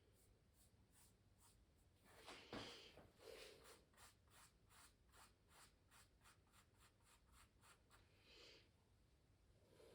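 Quiet, quick repeated strokes across canvas, about four a second, after a louder scrape with a sharp tap about two and a half seconds in.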